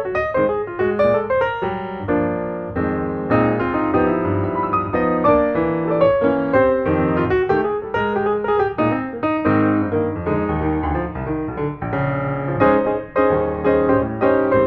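Piano music playing, many notes in quick succession.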